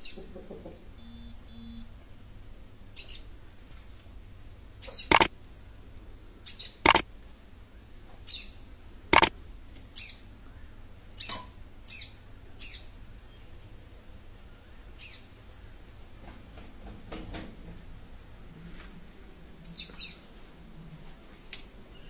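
Birds chirping now and then in short, high chirps. Three sharp, loud knocks or clicks about five, seven and nine seconds in are the loudest sounds.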